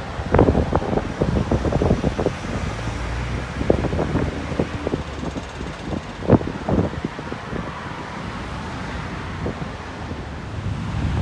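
Sea surf washing onto the beach, mixed with heavy wind buffeting the microphone: a steady low rumble broken by many short, sharp crackles.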